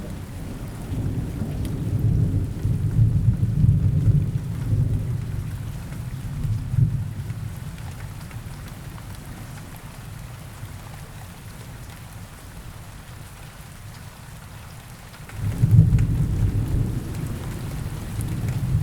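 Steady rain falling, with deep rolls of thunder: one rumbling from about a second in and fading by about seven seconds, and another breaking in suddenly near the end.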